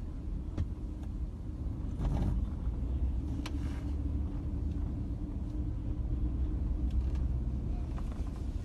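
Steady low rumble of a car being driven, its engine and tyre noise heard from inside the cabin, with a few faint clicks.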